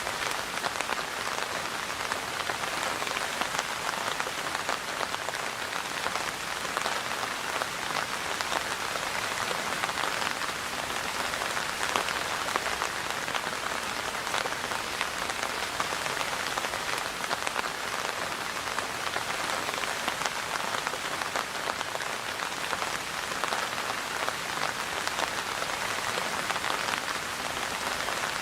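Steady rain falling, a continuous even hiss dotted with the ticks of individual drops landing on a surface.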